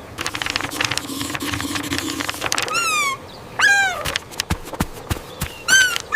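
Cartoon sound effects: a quick patter of clicks over a low hum, then three short, high, squeaky animal-like calls, the first sliding down in pitch and the others rising and falling.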